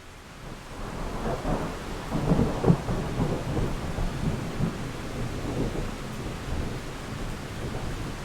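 A roll of thunder over steady rain. The rumble swells about a second in, peaks a couple of seconds later, then slowly dies away under the rain's hiss.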